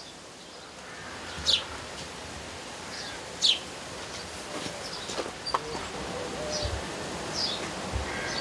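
Songbird chirping outdoors: a few short, high chirps, the loudest about one and a half and three and a half seconds in, with weaker ones later, over a steady background hiss.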